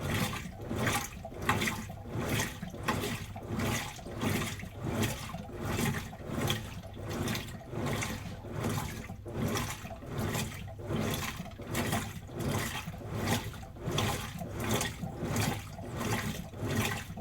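Washing machine washing a load of clothes: water and wet laundry sloshing in steady, regular surges, about three every two seconds.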